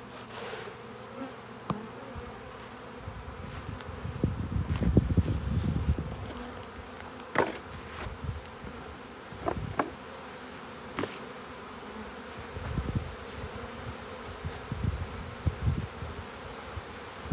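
Honey bee swarm buzzing steadily around the hive entrance. A stretch of low rumble on the microphone about four to six seconds in, and a few sharp knocks later on.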